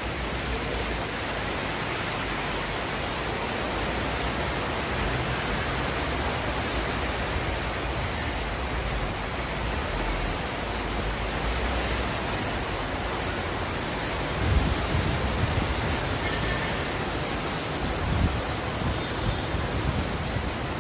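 Heavy rain pouring down, a steady, even hiss, with a few low bumps on the microphone about two-thirds of the way through.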